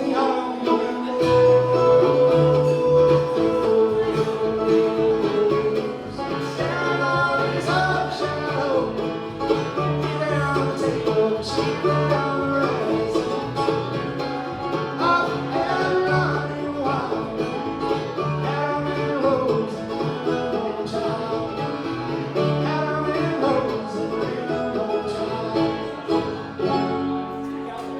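Live bluegrass band playing an instrumental passage: banjo and guitar picking over a steady alternating bass line.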